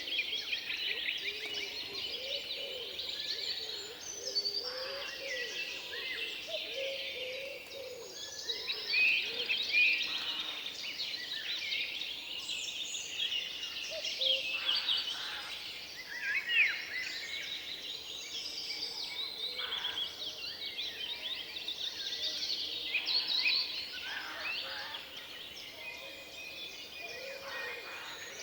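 Forest ambience: many songbirds singing and chirping at once in a dense, overlapping chorus, with some lower calls among them.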